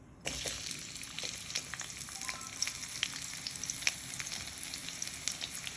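Sliced onions going into hot oil in a wok: the sizzle starts suddenly about a quarter second in, then keeps up as steady frying with scattered crackles and pops.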